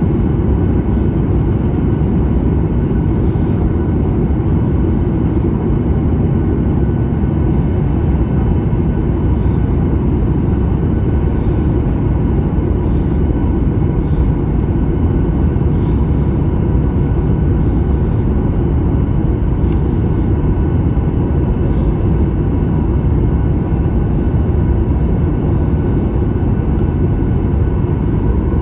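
Steady cabin noise inside a Boeing 737 MAX 8 in flight: a deep, even rush of airflow and engine noise from its CFM LEAP-1B turbofans, with a few faint steady tones above it.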